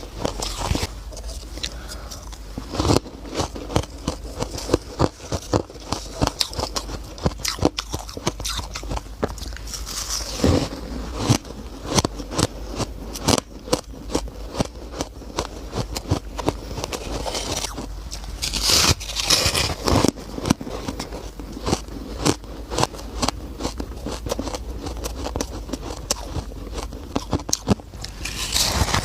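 Close-miked eating of squeaky shaved ice: continual crunching and squeaking bites and chews, with a few louder bites here and there.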